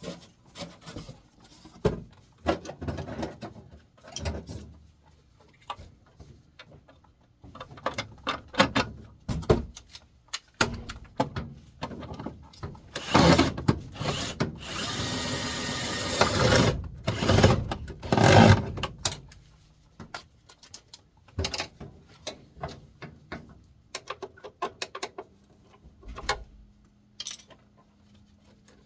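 Scattered clicks and knocks of tools and metal parts being handled during furnace blower motor reassembly, with a power drill running steadily for about four seconds near the middle and briefly again just after.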